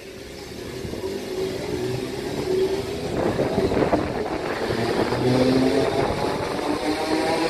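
A train accelerating, its motors giving a whine of several tones that rise slowly in pitch as it grows louder.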